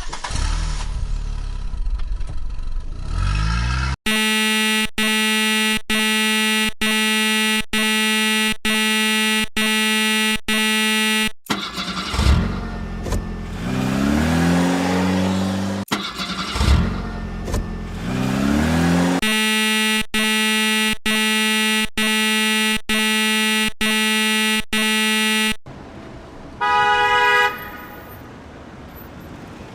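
A vehicle horn honking in long runs of identical short blasts, about one and a half a second. Between the runs an engine revs up, rising in pitch. The sound drops to a quieter stretch near the end.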